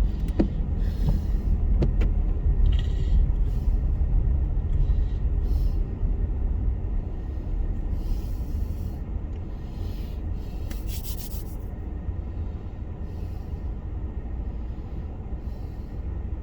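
Car driving on a snowy road, heard inside the cabin: a steady low rumble of tyres and engine, with short scraping swishes every second or two.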